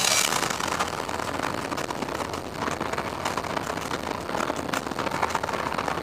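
A car engine running, a steady noisy drone with scattered clicks and a louder burst right at the start.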